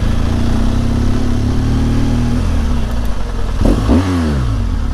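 BMW R1200GS Adventure's boxer-twin engine running at low speed, with a brief rev that falls away about four seconds in.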